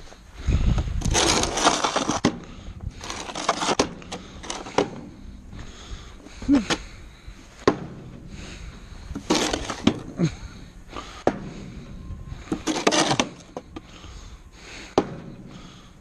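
Hand snow shovel scraping along the ground and scooping snow in repeated strokes about a second long, with sharp knocks and short squeaks between them.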